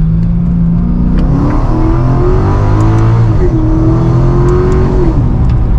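Mercedes-Benz CLK DTM AMG's supercharged 5.4-litre V8 accelerating, heard from inside the cabin. The revs climb from about a second in, dip briefly near the middle, hold high, then ease off near the end.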